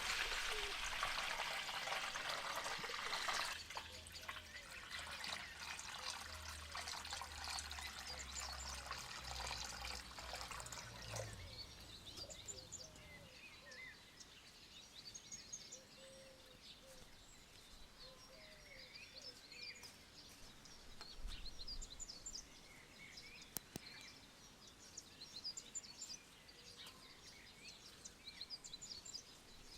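Running water, loudest for the first three and a half seconds, then quieter and fading out by about eleven seconds in. After that, small birds chirp on and off.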